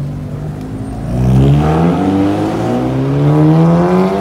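A car accelerating hard close by: the engine note climbs, drops briefly at a gear change about two seconds in, then climbs again and falls away near the end.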